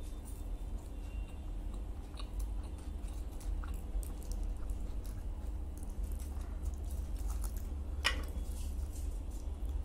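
A man chewing and biting into a chicken salami roll close to the microphone, with soft crunches and mouth clicks over a steady low hum. A sharp crackle stands out about eight seconds in as he handles the foil-wrapped roll at the sauce bowl.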